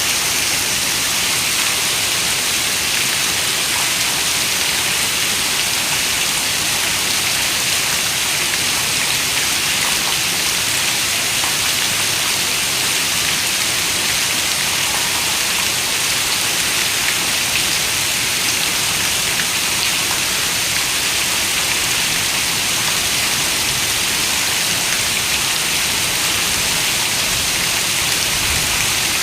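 Steady rain falling, an even hiss that keeps the same level throughout, strongest in the high end.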